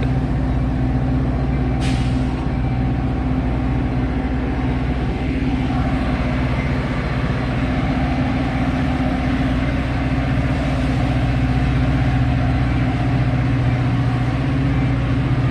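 Metra commuter train with its diesel locomotive running steadily as the train pulls out of the station, with a short hiss about two seconds in.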